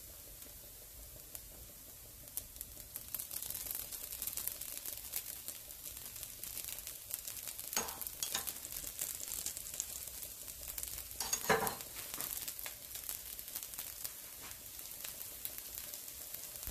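Dosa cooking on a hot cast-iron pan, sizzling and crackling as oil is spooned around its edge. The crackle grows denser about two seconds in, with a couple of brief louder flares, the loudest about eleven seconds in.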